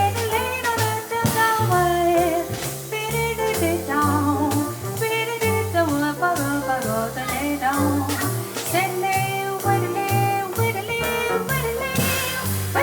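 Live jazz combo of double bass, drums and piano playing an instrumental passage: a walking bass line under cymbal and drum strokes, with a melody line moving above them.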